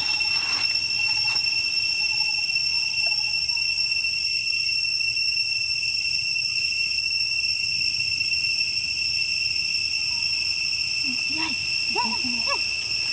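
Steady, high-pitched drone of jungle insects, with a few short rising-and-falling calls near the end.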